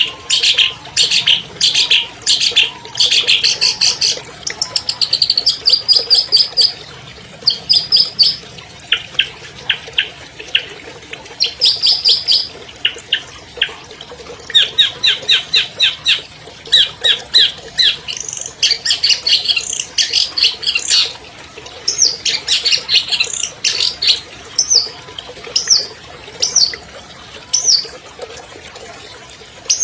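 Long-tailed shrike (cendet) singing a long, varied song: fast runs of repeated sharp notes and trills that change phrase every second or two, packed with mimicked 'isian' phrases.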